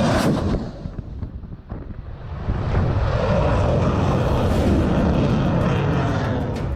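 Loud engine roar from a powered craft. It dips about a second in, swells back from around two and a half seconds and holds steady, with sharp crackles near the end.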